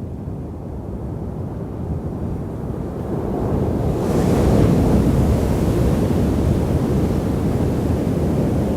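Ocean surf at high tide: a low rumble of waves that swells as a wave breaks about four seconds in, its wash hissing on after it.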